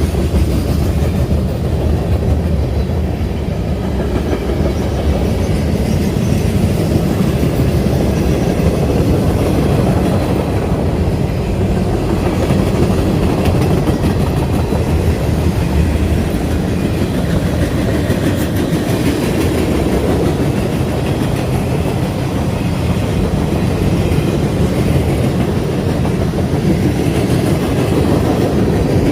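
A southbound train passing at speed: a loud, steady rumble of the cars rolling over the rails.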